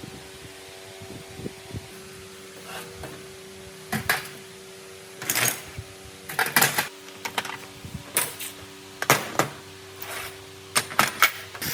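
Irregular short knocks and scrapes, some in quick clusters and most from about four seconds on, over a steady low hum.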